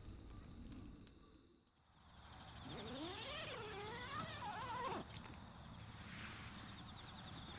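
A wild animal's long call, rising in pitch and then wavering for about two and a half seconds before cutting off, over steady chirping of insects.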